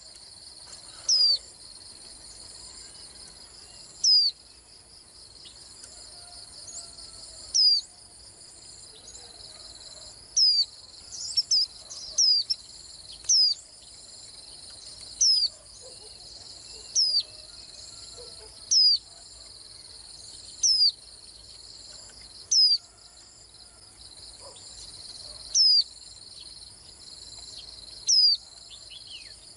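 White-eye giving single sharp, high chirps every two seconds or so, with a quick flurry of notes about eleven seconds in, over a steady high-pitched buzz in the background.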